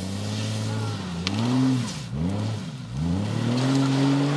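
Jeep engine revving up and down under load, its pitch dropping and rising again three times before climbing and holding at higher revs near the end.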